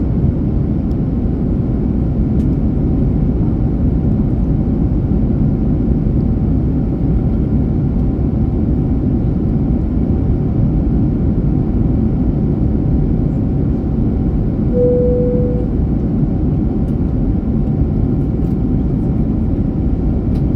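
Jet airliner cabin noise in flight: a steady, dense low rumble of engines and airflow with a faint steady whine over it. A brief single tone sounds about 15 seconds in.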